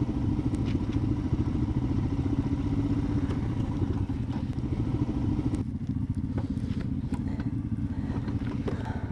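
Motorcycle engine running steadily while riding a rough off-road track, with scattered small knocks and clatter. The engine note softens a little just past halfway through.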